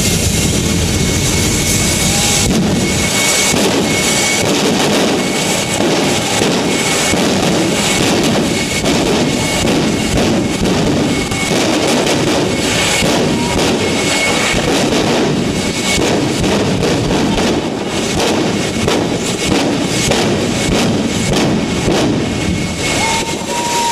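Jet dragster's jet engine running loud and steady at high power, its roar shot through with a dense crackle.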